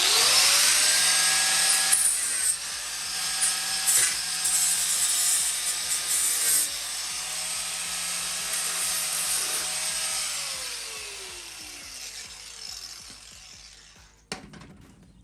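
Electric angle grinder stripping rust from the van's body steel to prepare the surface: it spins up with a rising whine, runs with the pitch dipping as the disc bites, then is switched off and winds down with a falling whine over the last few seconds. A short knock comes near the end.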